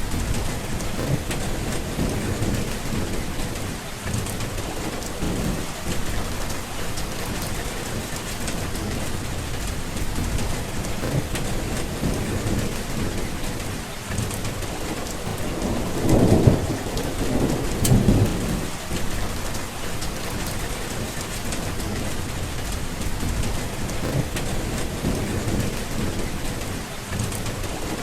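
Steady rain falling, with rolling thunder rumbling underneath; the thunder swells loudest in two rolls a little past the middle.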